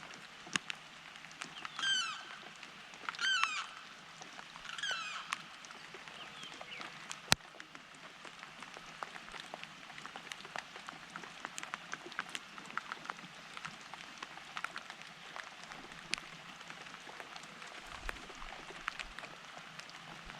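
A bird gives three short, harsh calls in the first five seconds over a background of scattered drip ticks from water falling after rain, with one sharp click about seven seconds in.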